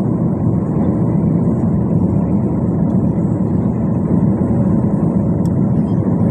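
Steady low rumble of jet airliner cabin noise, heard from inside the passenger cabin.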